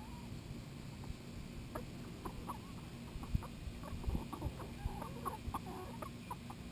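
Chickens clucking softly as they feed, with many short calls, busier from about two seconds in, and a few soft knocks from pecking.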